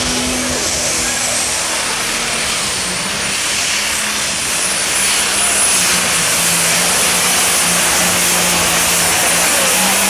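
Super stock pulling tractor's turbocharged engine running hard, with a high turbo whine that climbs over the first second or so and then holds steady. It gets louder about five seconds in.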